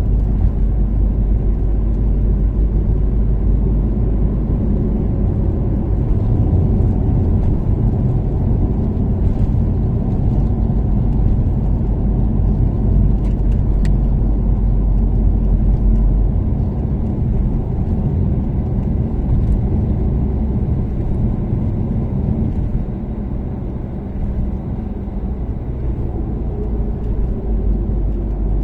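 Toyota Caldina ST246W's turbocharged 3S-GTE four-cylinder with an ATR Sports2 exhaust, cruising at expressway speed: a steady low engine and road rumble. It eases off a little about two-thirds of the way through and then builds again.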